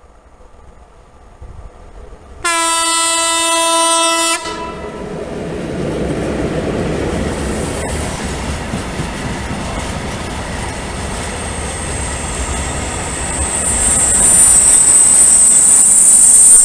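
ČD Cargo class 163 electric locomotive sounds one loud horn blast of about two seconds as it approaches with a train of tank wagons. Then comes the rolling rumble of the passing locomotive and wagons. Near the end a high-pitched wheel squeal builds and grows louder.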